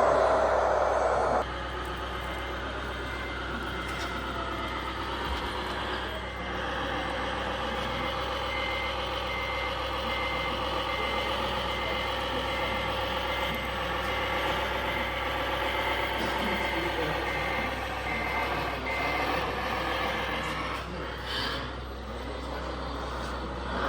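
Radio-controlled construction truck's sound module playing a diesel engine running, with a reversing beeper sounding in regular repeated beeps until a few seconds before the end. A louder noise at the start cuts off sharply after about a second and a half.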